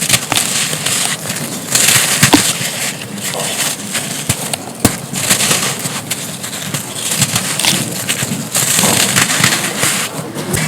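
Dry chunks of pressed sand crumbling and breaking apart: a dense run of crisp crackles and grainy crunching, with a few sharper snaps.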